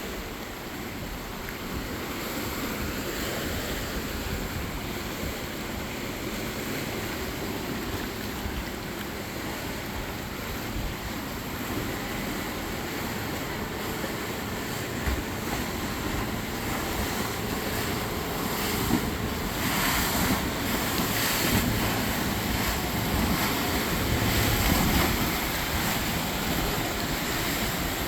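Choppy canal water sloshing and splashing while motorboats run past, with wind buffeting the microphone. The water and engine noise swells for several seconds past the middle, then eases off near the end.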